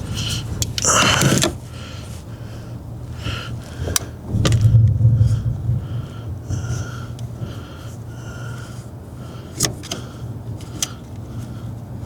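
Handling noises from work on a car's steering column: rustling and scraping of parts with a few sharp clicks, over a steady low hum.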